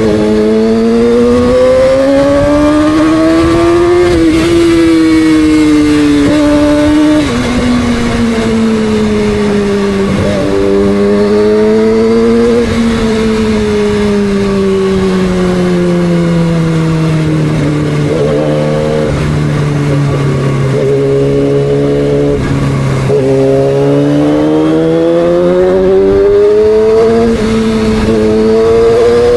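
2006 Yamaha R6's inline-four engine under way, its pitch rising and falling with the throttle and stepping abruptly at gear changes. It sinks slowly to its lowest about two-thirds through, then climbs again.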